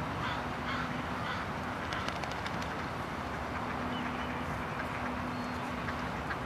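Ducks giving short, soft calls over a steady low hum and outdoor background noise.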